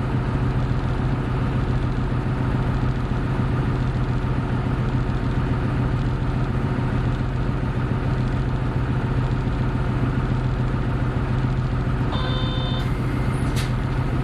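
Hino Blue Ribbon City hybrid bus (BJG-HU8JLFP) heard from inside, its diesel engine running with a steady, even hum. About twelve seconds in, a short electronic beeping starts.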